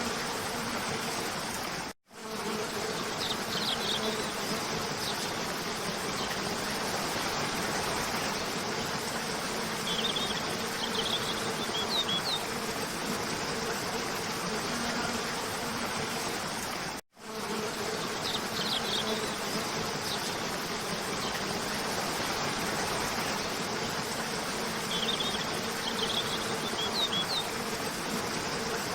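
Steady rush of a cascading waterfall with small groups of short, high bird chirps now and then. The sound cuts out for a split second about two seconds in and again about fifteen seconds later, and the same chirps recur after each cut, as where a looped recording restarts.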